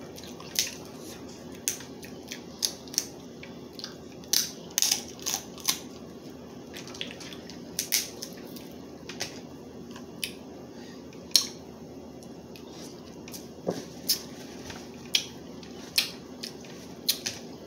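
Close-miked eating of crab legs: irregular sharp clicks and snaps of shell and mouth, one to three a second, over a steady low hum.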